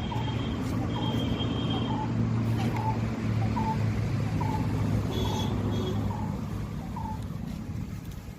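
Steady low hum, like a running vehicle engine, under a short bird call repeated about once a second. A thin high whistle is held briefly twice near the start and once more a little past halfway.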